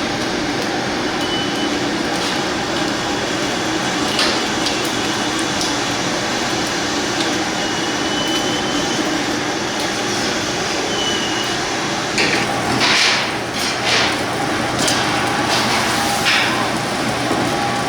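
A steady mechanical drone with scattered knocks and clatter, which come thicker from about twelve seconds in.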